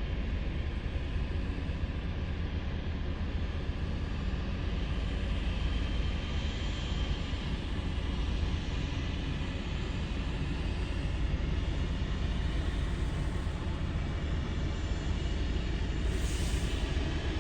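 Jet airliner engines, a steady rumble with hiss.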